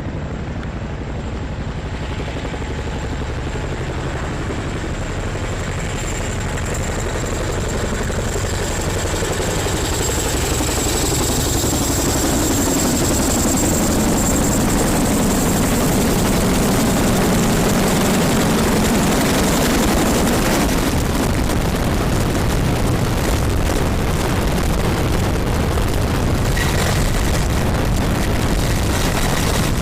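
Military helicopter's rotor and turbine engines, a steady dense noise with a high whine over it, growing louder as it comes in and loudest about two-thirds of the way through.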